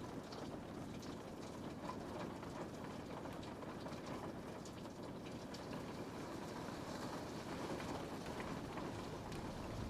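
Steady rain on a window pane, a dense even patter with scattered individual drop ticks over a low rumbling undertone.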